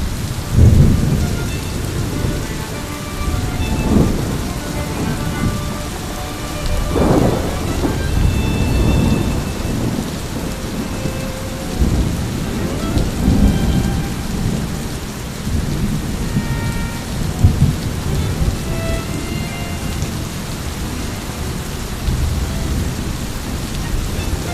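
Steady heavy rain with thunder rumbling again and again, swelling and fading in low rolls.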